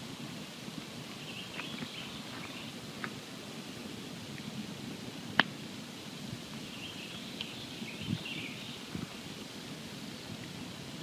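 Campfire burning with a low steady crackle and a few scattered snaps, and one sharp, loud pop about halfway through.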